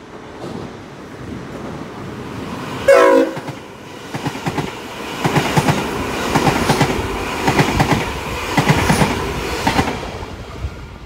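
Electric commuter train sounds one short horn blast about three seconds in. It then passes at speed, its wheels clattering over rail joints in quick clustered groups as the cars go by.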